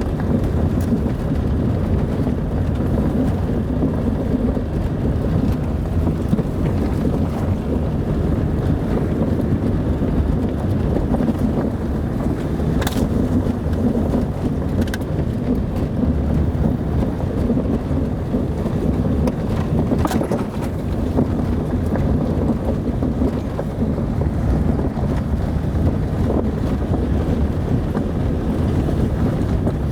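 Car driving, a steady low rumble of engine and tyres, with a few short sharp ticks along the way.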